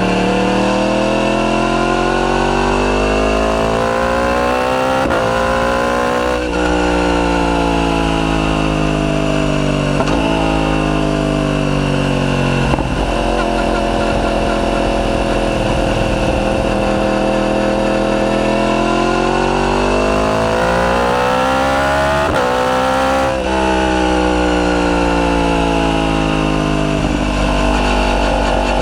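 Yamaha YZF-R1's crossplane inline-four engine through a decatted Akrapovic full titanium exhaust, climbing in pitch under acceleration and then falling back as it eases off. This happens twice, each time with a sudden break in pitch at a gear change.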